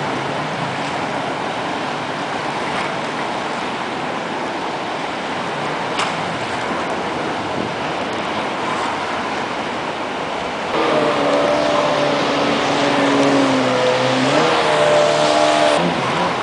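Jet ski engine running against a steady rush of noise, then revving louder for about five seconds, about 11 seconds in, its pitch rising and dipping before it drops back.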